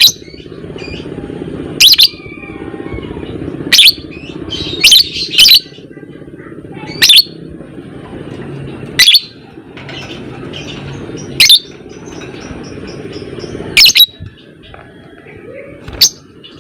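Lovebird giving short, loud, high-pitched calls, about one every two seconds, over a steady low background hum.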